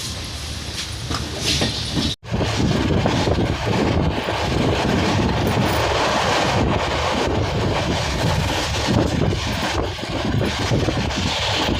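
Passenger train in motion: a steady rumble and rattle of the coaches, with wheels clacking over the rail joints. The sound cuts out for an instant about two seconds in and comes back a little louder.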